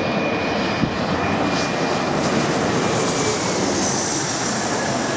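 Jet airliner passing low overhead on landing approach: steady engine noise, with a high whine coming in about three to four seconds in.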